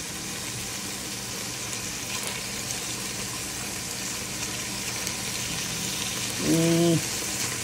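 Marinated chicken pieces frying in oil in an enamelled pan over low heat: a steady sizzle with fine crackling as a metal slotted spatula turns the pieces. A short hummed voice sound about six and a half seconds in.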